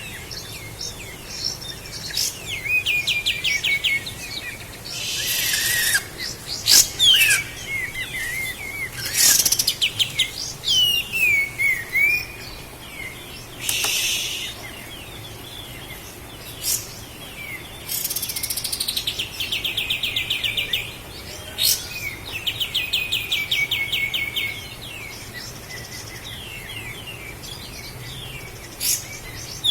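Kapas tembak bulbul singing: quick chirps and downward-sliding whistles mixed with fast, even rattling trills, several of them lasting one to three seconds. Short harsh hissing bursts come in between the phrases.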